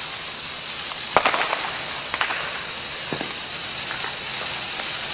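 A hand-held sparkler fizzing with a steady crackling hiss. About four sharper pops stand out, the loudest about a second in.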